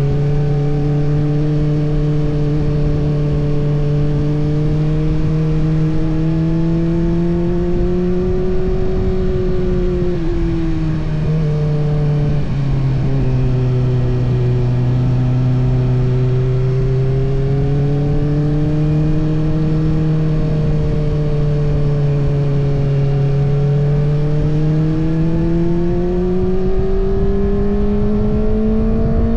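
Kawasaki ZX-6R's 636 cc inline-four engine running under throttle while riding, its pitch wavering gently at moderate revs. The engine note drops briefly about eleven seconds in, then climbs steadily over the last few seconds as the revs rise.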